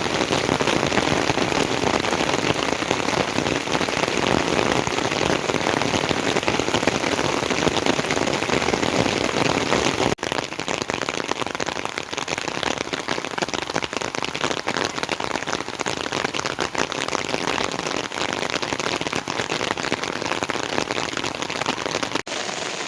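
Heavy rain falling steadily, a dense, even hiss and patter, with two brief dropouts where the recording cuts.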